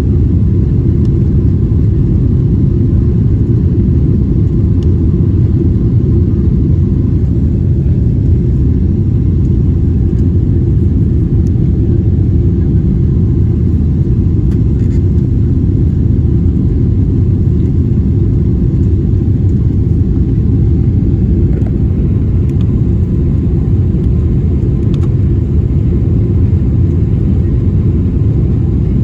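Jet airliner cabin noise: a steady low rumble of engines and rushing air heard from inside the cabin, with a faint steady hum above it.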